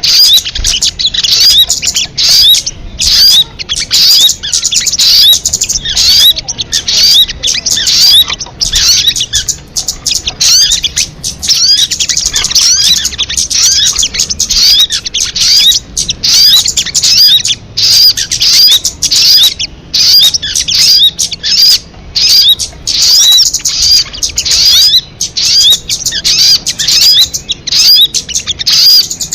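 Recorded song of a sogon (kamade) bird: rapid, high-pitched chirping notes strung in long dense phrases with brief pauses, played loud and continuously, as used to lure or train birds.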